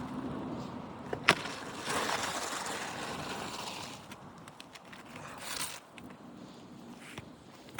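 Asphalt roof shingles being handled and lifted: a sharp snap about a second in, then a couple of seconds of rough scraping, then fainter scattered ticks.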